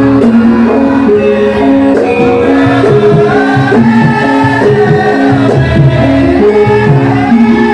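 Live Javanese gamelan music for a lengger mask dance: tuned metal percussion playing stepped melodic lines, with a singer's voice over it.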